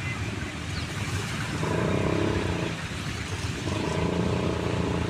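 Motor vehicle engine running, swelling louder twice over a steady background rumble.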